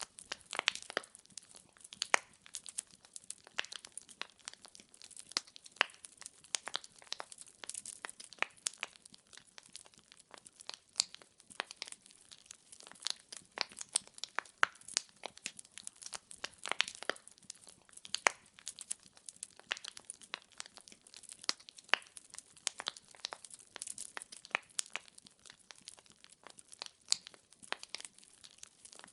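Burning wood logs crackling in a fire: a continuous run of irregular sharp pops and snaps, several a second, over a soft hiss.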